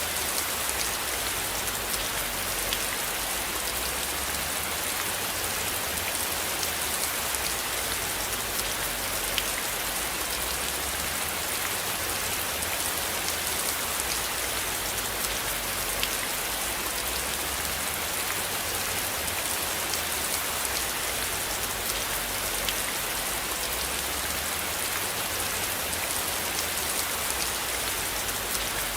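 Steady rain hissing, with scattered small drop ticks and a low, uneven rumble underneath.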